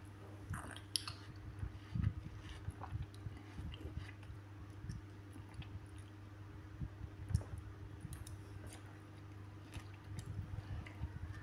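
Close-up chewing of soft, juicy fruit pieces (melon, papaya, watermelon), with irregular light clicks of a metal fork on a plastic plate. A steady low hum runs underneath.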